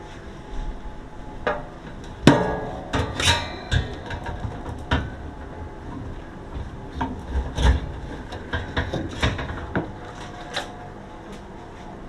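Irregular knocks, clicks and rubbing from parts and tools being handled during repair work, the sharpest knock about two seconds in.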